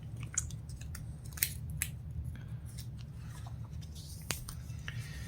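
Paper catalog pages being handled and turned: a few sharp crisp clicks and soft rustles of paper over a low steady hum.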